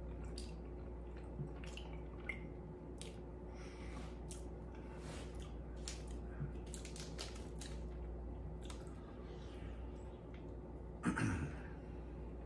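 A man chewing a piece of cheese with his mouth, giving soft wet clicks and smacks spread throughout. A brief vocal murmur comes about 11 seconds in.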